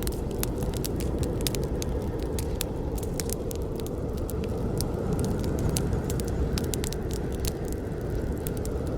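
Wood campfire burning: a steady low rumble of flames with frequent, irregular sharp crackles and pops.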